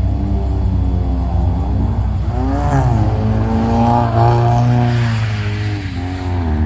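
Car engine revving, its pitch rising and falling several times over a steady low rumble, as the car slides around in snow.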